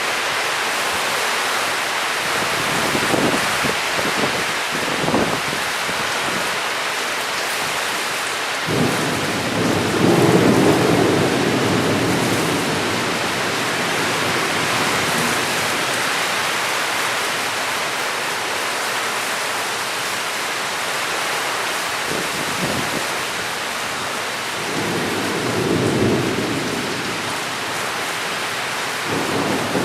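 Heavy, steady rain hissing, with rolling thunder that swells twice: the loudest rumble about a third of the way in, and a second one near the end.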